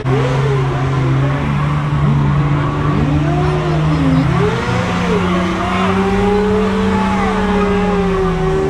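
Car engine held at high revs, stepping higher about halfway through, with tyres squealing in wavering swoops: a car doing a burnout or donuts.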